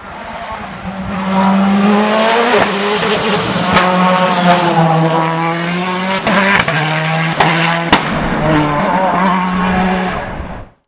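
Hill-climb race car engine at high revs as the car drives past, its pitch rising and dropping back several times with gear changes, with a few sharp cracks. It builds up about a second in and cuts off suddenly near the end.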